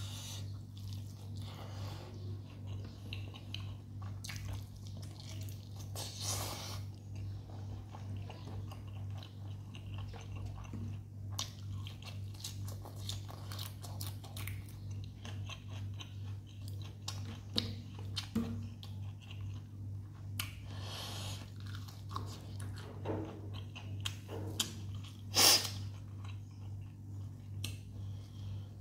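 Eating by hand: chewing, biting and crunching a meal of rice, chicken and raw green leaves, with many irregular wet clicks. A steady low hum runs underneath, and one sharp, loud click comes near the end.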